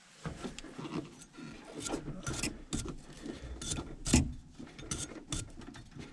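Hand tools scraping and clicking against metal gas-line fittings in irregular strokes, with a sharper knock about four seconds in.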